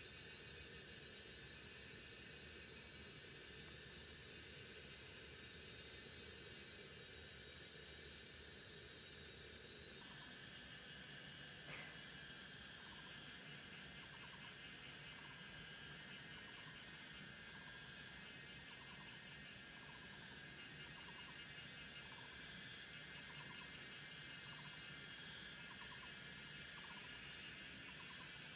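A steady high-pitched hiss of outdoor ambience drops suddenly to a quieter hiss about ten seconds in. Faint regular pips then repeat about once a second.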